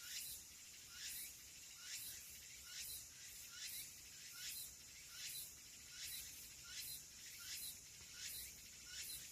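Faint, high-pitched animal call repeated about once a second, each a quick downward sweep, in an outdoor rural setting.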